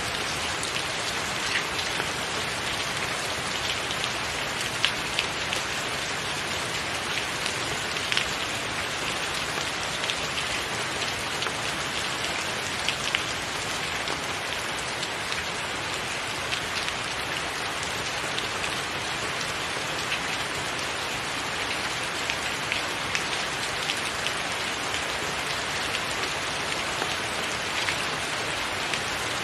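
Steady rain falling, an even hiss with many sharp individual drop ticks scattered throughout.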